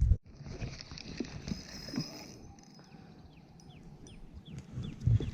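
Quiet outdoor ambience with a bird calling: about six short falling notes a little after three seconds in, over a steady high-pitched tone.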